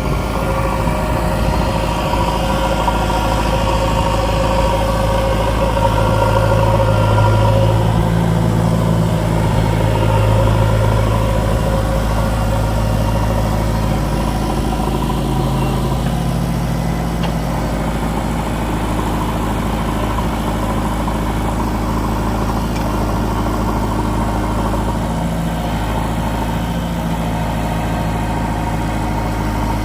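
Diesel engine of a JCB 3DX backhoe loader running steadily near idle. It gets a little louder and higher about six seconds in, eases back around twelve seconds, and shifts pitch slightly again a few seconds later, as when the engine takes hydraulic load from the backhoe.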